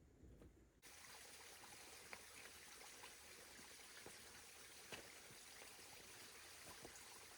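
Near silence: a faint, even hiss that starts abruptly under a second in, with a few faint ticks scattered through it.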